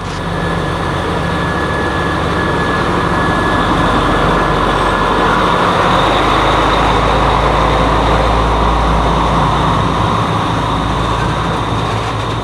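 Sri Lankan local commuter train running along the track: a loud, steady rumble and rush of noise, with a thin high whine over about the first half.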